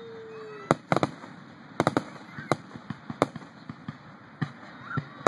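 Fireworks going off: about ten sharp bangs at irregular intervals, some in quick pairs and triplets.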